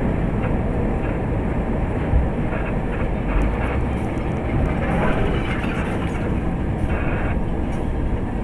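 Steady low rumble of a moving vehicle heard from inside, road and running noise.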